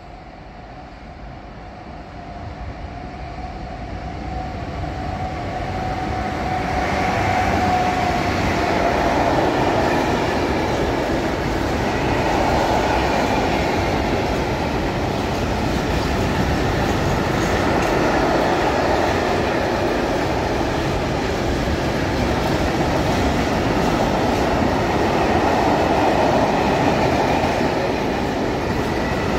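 A long freight train of covered hopper wagons approaching and passing: its rumble and clattering wheels grow louder over the first several seconds, then hold steady as the wagons roll by.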